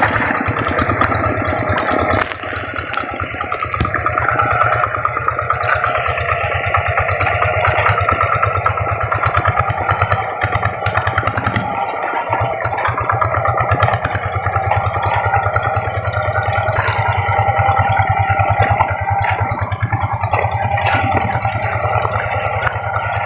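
Rice-paddy tractor engine running steadily with a fast, even beat, easing off briefly about two seconds in.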